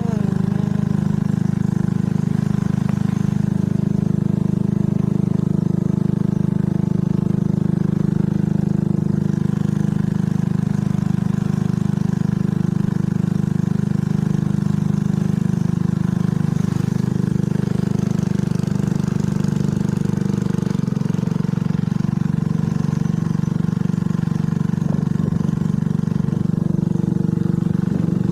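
An engine running steadily at one even speed, a low drone.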